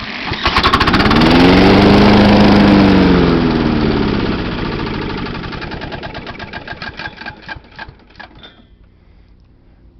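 Kawasaki FC150V single-cylinder engine of a John Deere JX85 mower, cranked by a drill on the recoil nut, catching and running for a few seconds with a whine rising and falling in pitch. It then slows with spaced-out uneven beats and dies about eight and a half seconds in, a start that holds only for a moment.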